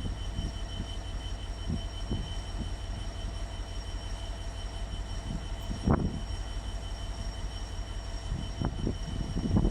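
Train running: a steady low rumble with a faint, steady high-pitched whine, and a couple of knocks, one about six seconds in and one near the end.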